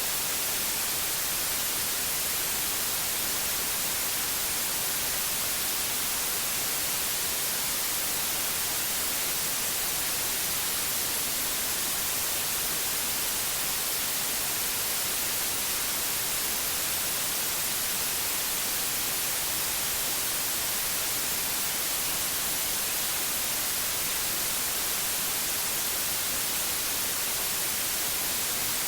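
Steady synthetic white noise: an even hiss with no changes, brightest in the high frequencies.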